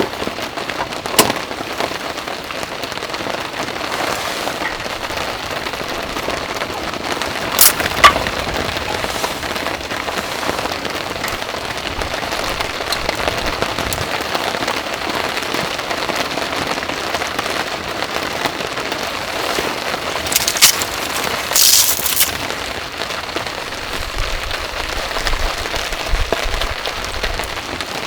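Steady heavy rain falling, with a few louder sharp drop hits: one about a second in, one about eight seconds in, and two close together around twenty-one seconds.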